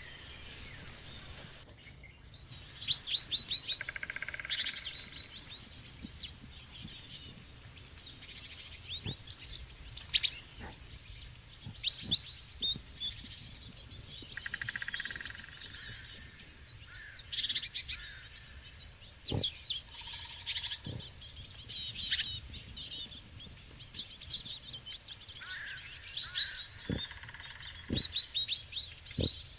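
Small birds chirping repeatedly in quick, high series of notes, overlapping calls throughout, with a few short soft knocks in the second half.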